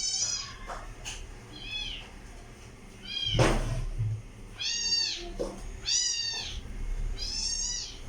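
A kitten mewing repeatedly: about six short, high-pitched meows. There is a single sharp knock about three and a half seconds in.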